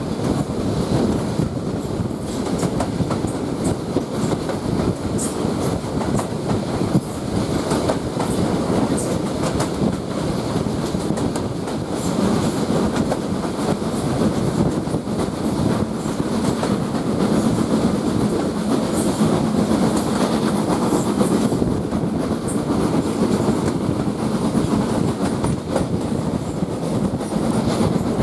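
Passenger train hauled by LSWR S15 No 506 under way, heard from a carriage just behind the locomotive: a steady rumble and clatter of wheels on the track.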